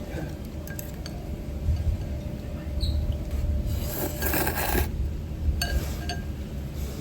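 Eating soba at a stand-up counter: light clicks of chopsticks against the bowl and a long noisy slurp of noodles about four seconds in, over a steady low rumble.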